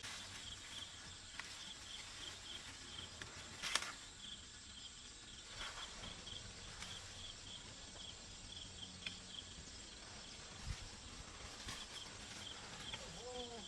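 Insects chirping in a steady train of short, high pulses, a few a second, with a sharp knock about four seconds in.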